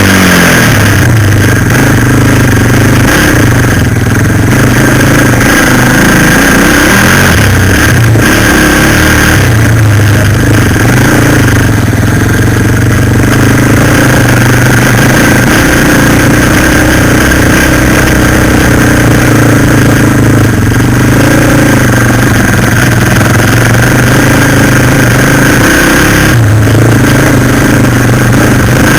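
Suzuki LTZ 400 quad bike's single-cylinder four-stroke engine running loud and close to the microphone, its pitch wavering slightly with the throttle.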